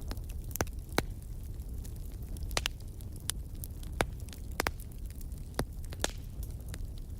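Campfire crackling: a low steady rumble of flames with sharp, irregular pops and snaps, about one a second.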